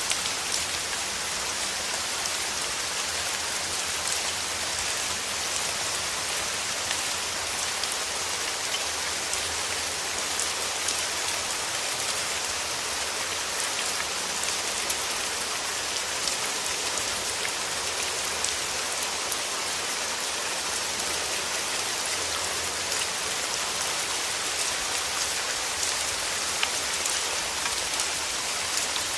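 Steady rain falling on rose petals: an even hiss sprinkled with many small, sharp drop taps.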